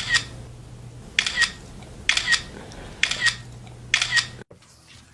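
A sharp double click repeated about once a second, five times, over a steady low hum. The clicks stop suddenly near the end.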